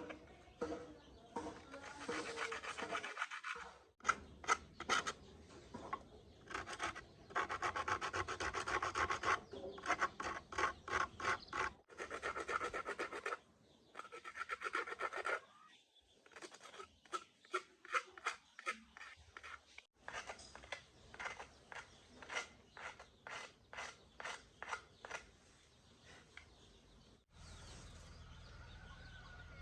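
A hand tool scraping back and forth over a part during machine repair, in runs of about two to three strokes a second with short pauses between them. The strokes stop near the end.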